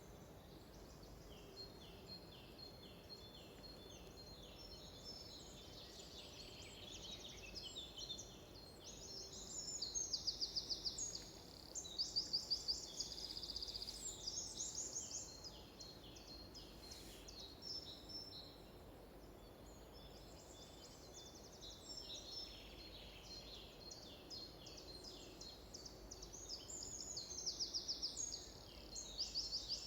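Songbirds singing, several at once: overlapping series of repeated high notes and fast trills. The trills are loudest about ten and twelve seconds in and again near the end.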